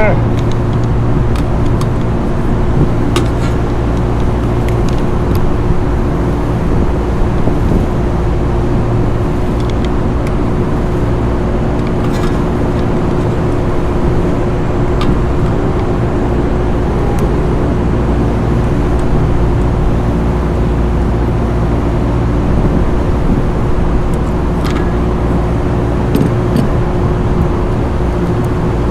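Steady mechanical drone of running rooftop machinery, with a constant low hum, and a few faint short clicks.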